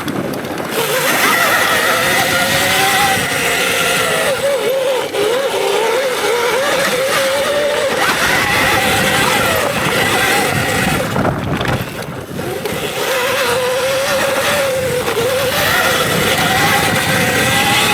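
Electric dirt bike's motor whining under way on a trail, its pitch rising and falling with the throttle over heavy wind and tyre noise. The whine drops off briefly about eleven seconds in, then picks up again.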